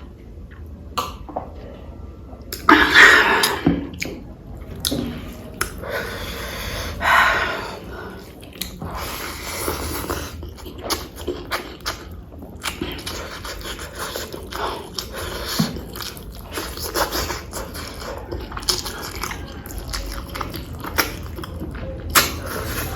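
Close-up eating sounds: a person chewing and biting mouthfuls of pork curry and rice, with wet smacking clicks throughout and two louder, longer bursts about three and seven seconds in.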